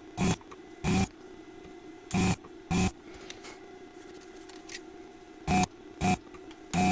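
Amiga 500's 3.5-inch floppy drive stepping its read head: short buzzing bursts, mostly in pairs, about seven in all, with a faint steady whine between them.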